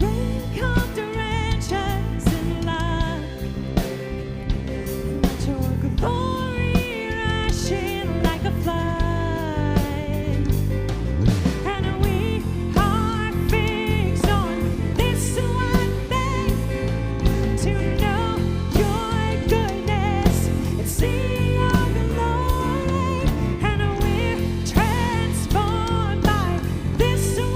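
Live church worship band playing a contemporary worship song, with a singer's voice over the band and a steady drum beat.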